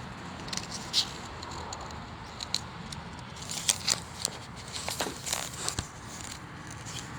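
Handling noise from a small cardboard hang tag being handled and its pages turned: scattered light clicks, crackles and scrapes at irregular times.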